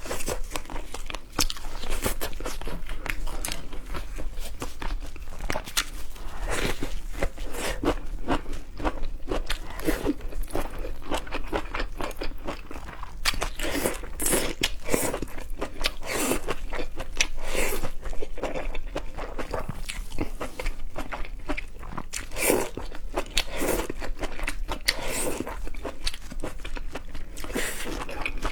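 A person biting and chewing seafood close to the microphone: continuous crunching and crackling with many small irregular cracks.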